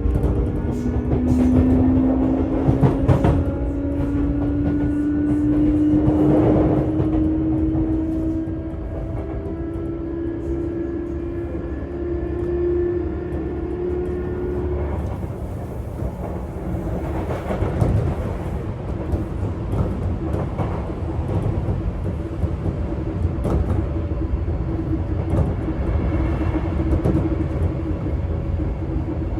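Sotetsu 8000 series electric train heard from inside a motor car. The traction motor whine rises steadily in pitch for about the first half as speed builds, then holds level over a running rumble with scattered rail-joint clicks.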